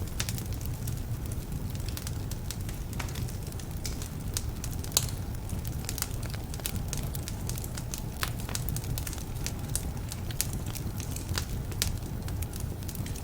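Wood fire burning in a fireplace: a steady low rumble of flames under frequent sharp crackles and pops, with the loudest pop about five seconds in. The crackling comes from logs that are somewhat damp.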